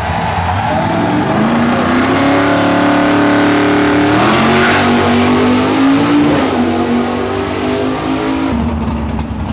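Classic sedan drag car's engine revving hard and launching down the strip, the pitch climbing, jumping at a gear change about four seconds in, climbing again and then falling away as the car pulls off. The sound changes abruptly near the end.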